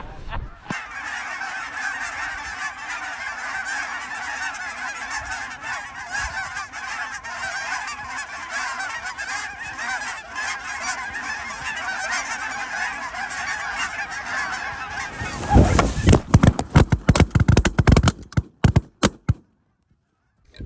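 A large flock of geese honking, a dense, continuous chorus of many overlapping calls. About fifteen seconds in, several seconds of loud, irregular thumps and buffeting take over, then the sound cuts off.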